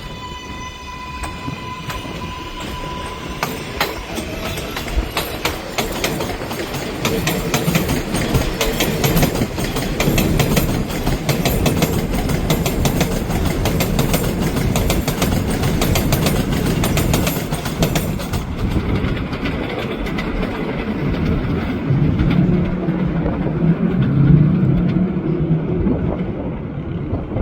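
A New York City subway 7 train, R188 cars, passing on the elevated steel structure. A steady electric motor whine fades out about three seconds in, then the wheels clatter rapidly over rail joints, giving way near the end to a lower rumble as the train moves off.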